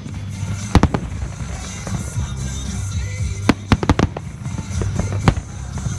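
Aerial firework shells bursting with sharp bangs: one right at the start, a pair just under a second in, a quick run of about four a little past the middle, and one more near the end. Music plays underneath.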